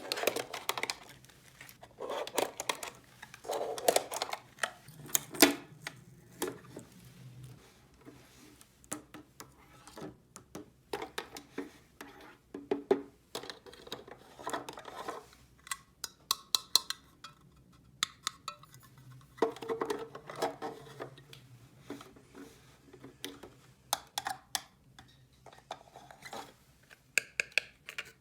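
Small plastic toy pieces clicking and clattering as they are handled and set down, in quick irregular taps and knocks.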